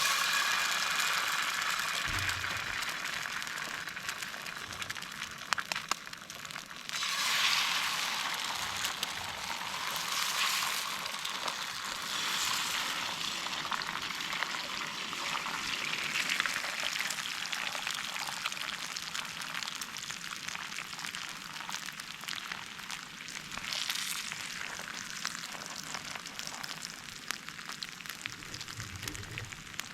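Food frying in a hot pan, a steady sizzle that swells and eases several times.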